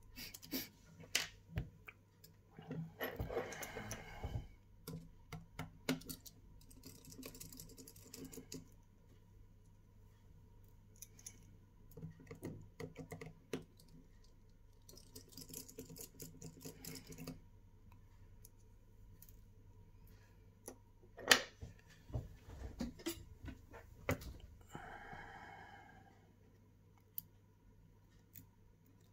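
Small tools clicking and tapping on an iPhone's parts during disassembly: scattered sharp clicks at an irregular pace, with a few brief scraping or rustling stretches.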